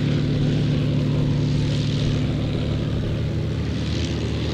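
Propeller-driven warbird fighter's V12 piston engine running steadily, a low even drone.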